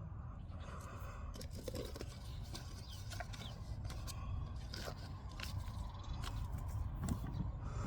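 Irregular close scraping, crunching and clicking of hands at work planting seeds, over a steady low rumble, with a few faint bird chirps.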